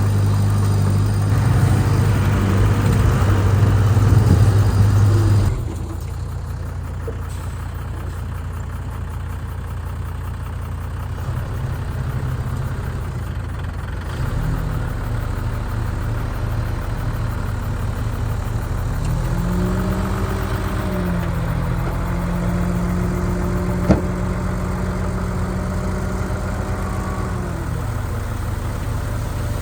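Heavy diesel earthmoving machinery running, loud and steady for the first five seconds, then quieter. A little after nineteen seconds the engine revs up, holds, and drops back down near the end. There is one sharp click about twenty-four seconds in.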